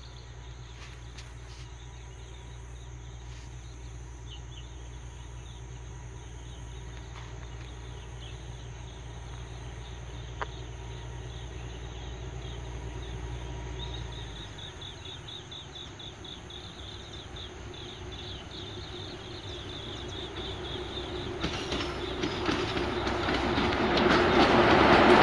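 Diesel locomotive hauling passenger coaches approaching along the line, its engine and wheel noise growing from faint to loud over the last several seconds as it draws close. Faint high chirping sits in the background earlier on.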